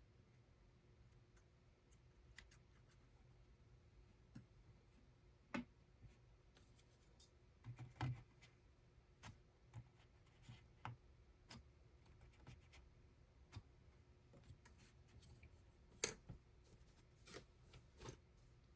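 Faint, irregular small clicks and snips of handwork with thread, the loudest about 8 and 16 seconds in.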